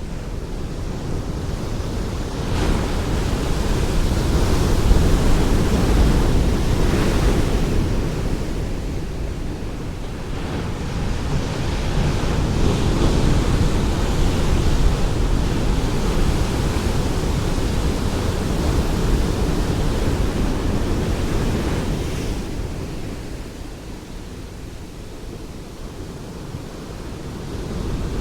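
Ocean waves breaking and washing on a shore, a steady rush that swells with each wave. Three surges, one near the start, one in the middle and one just before the end, with a quieter lull between the last two.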